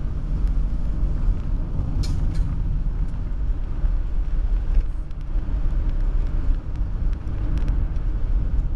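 Geo Metro with a newly installed engine and transmission, heard from inside the cabin on the move: a steady low engine drone with road noise, and a couple of short clicks about two seconds in.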